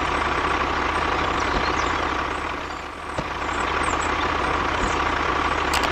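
The mini tractor's drive is running steadily: a low pulsing engine-like sound with a steady high whine over it. It dips briefly about three seconds in.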